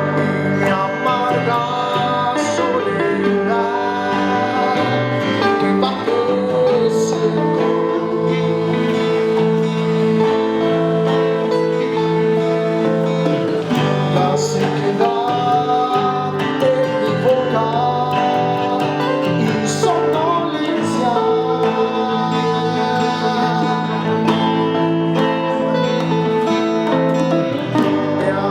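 Live band playing a song on guitars, bass and percussion, with a gliding melodic lead line over the steady chords.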